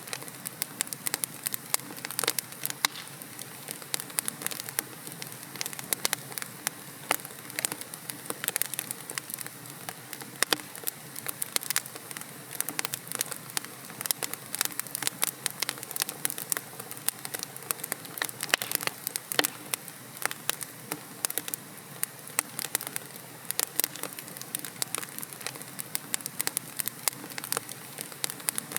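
Wood logs burning in a fireplace: dense, irregular crackling and popping over a steady low hiss of the flames.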